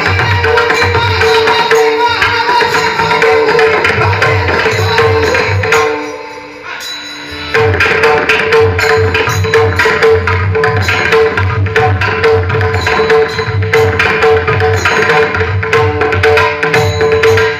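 Pakhawaj drumming in a steady rhythm under a held melodic tone, as devotional music. About six seconds in, the drum stops for a second or two, then comes back in.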